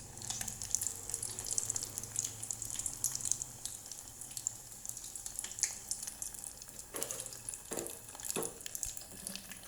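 Battered shrimp deep-frying in oil over low heat: a steady high sizzle full of fine crackles, with a few louder pops late on.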